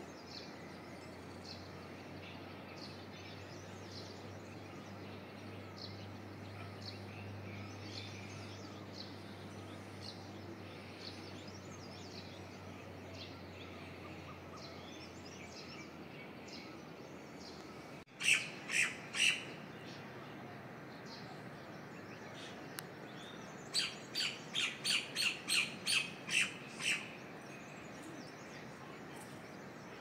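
Wild birds calling: many faint, short chirps over a steady outdoor hiss, then, after an abrupt cut about halfway, a bird gives three loud calls and a few seconds later a quick series of about ten loud calls.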